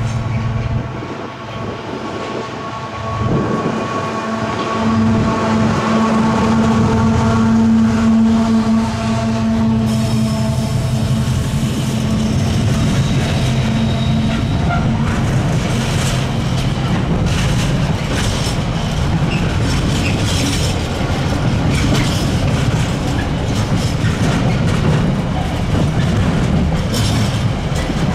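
A Freightliner Class 70 diesel locomotive passing, its engine a steady drone that is loudest about eight seconds in. After that come the container wagons rolling by, a steady rumble with a repeated clickety-clack of wheels over the track.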